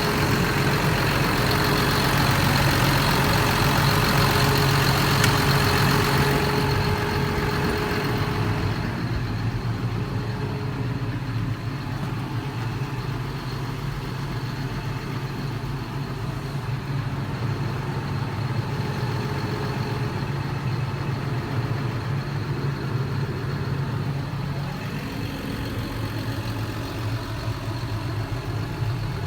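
John Deere 7830 tractor's six-cylinder diesel engine running steadily. It is louder, with an added hiss, for the first seven seconds or so, then settles lower.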